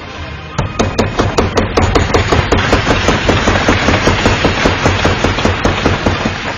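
Rapid, evenly spaced knocking, about six or seven sharp knocks a second, over a steady noise. It starts about half a second in and fades near the end.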